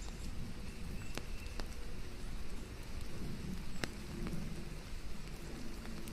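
Steady rain falling, an even hiss, with a few sharp drops tapping, one about a second in and another near four seconds.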